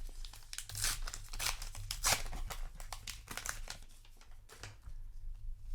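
Paper booster-pack wrapper being torn open and crinkled by hand: a run of quick tearing and crinkling strokes, loudest in the first two seconds, thinning out near the end.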